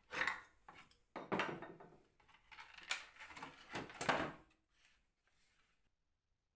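Wooden knocks and scraping, several in quick succession, as wooden parts are handled. They stop about two-thirds of the way through.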